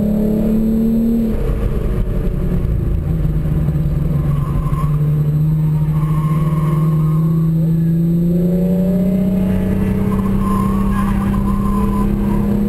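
Tuned Hyundai Genesis Coupe 3.8's V6 engine pulling hard, heard from inside the cabin. Its pitch drops sharply just over a second in, as at an upshift, then climbs slowly and steadily through the rest.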